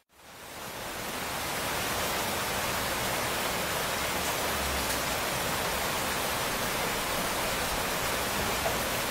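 Steady rain, a dense even hiss that fades in over the first second or two from a moment of silence.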